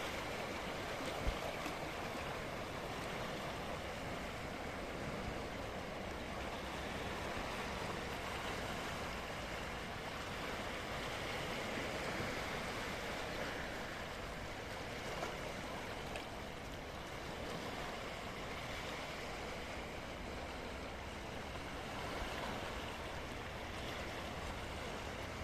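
Sea waves washing, a steady rushing noise without distinct surges.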